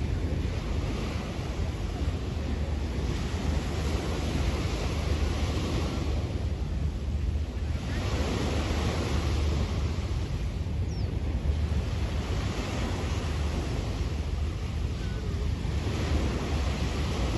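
Sea waves washing onto the beach, the surf swelling and falling back every few seconds, over a steady low wind rumble on the microphone.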